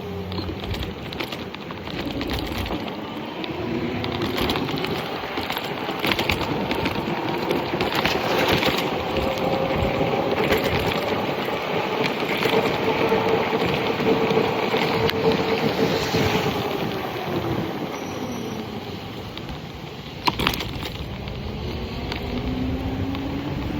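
Electric bike motor whining, its pitch climbing as the bike speeds up, holding, then falling as it slows, and starting to climb again near the end, over a steady rushing noise. A single sharp click comes about twenty seconds in.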